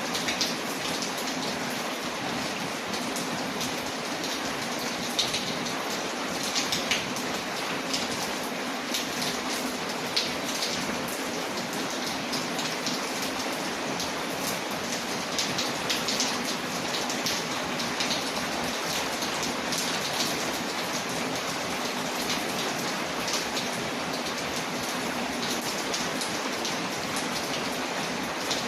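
Steady rain falling on a window, layered with a crackling wood fire; the even hiss of the rain is dotted with many small, sharp ticks and pops.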